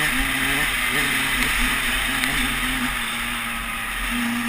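Motocross dirt bike engine running at a fairly steady speed, settling a little lower about three seconds in, then revving up sharply near the end, with wind rushing over the helmet-mounted camera's microphone.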